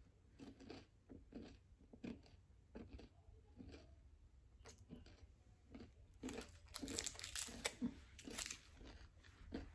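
Faint crunching as a chocolate-covered macadamia nut and crisped-rice candy is chewed, in scattered crunches that come thicker and louder about six seconds in.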